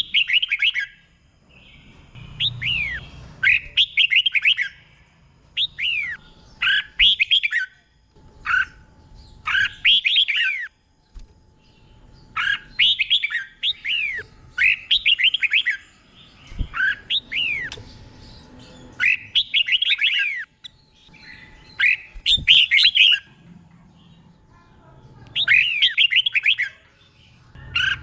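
Red-whiskered bulbul singing short phrases of quick falling whistled notes. A new phrase starts every one to three seconds, with brief gaps between.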